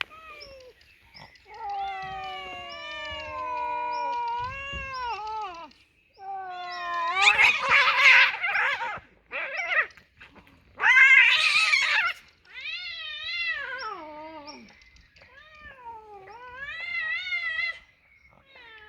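Cats caterwauling in a territorial standoff: long, wavering yowls that rise and fall in pitch, broken by two louder, rougher outbursts about seven and eleven seconds in.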